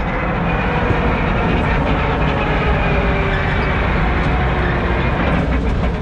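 A car's engine and driving noise: a steady, loud rumble.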